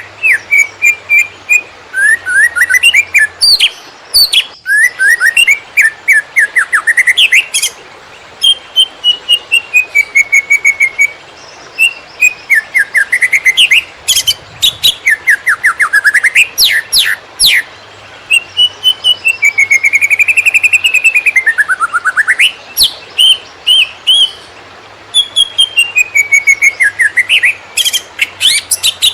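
Cucak ijo (greater green leafbird) singing loudly in the 'konslet' style: fast runs of sharp whistled notes, many a second, sliding down and back up in phrases broken by short pauses.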